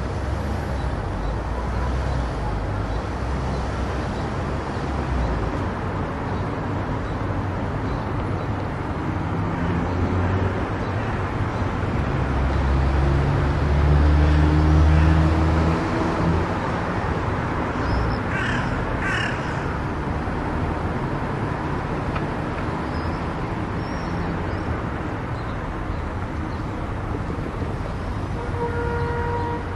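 Steady road and tyre noise of a car cruising on an expressway, with a low rumble that swells in the middle. Two short high calls or squeaks come about two-thirds of the way through, and a brief tone sounds just before the end.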